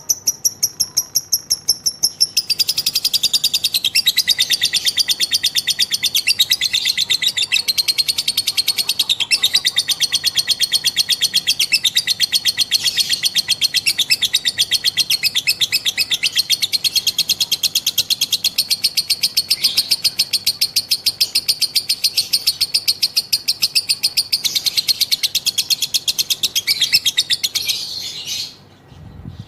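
A female lovebird giving a long ngekek: an unbroken, rapid chattering trill of fast repeated high notes. About two seconds in it widens and grows louder, and it breaks off abruptly near the end.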